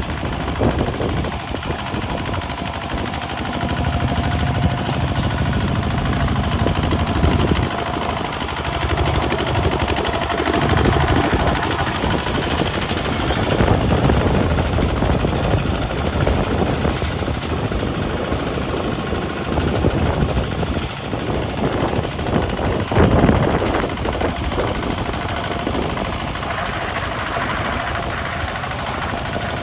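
Kubota RT single-cylinder diesel engine of a two-wheel hand tractor running under plowing load, its level rising and falling as the load changes, with a brief louder surge about three quarters of the way through.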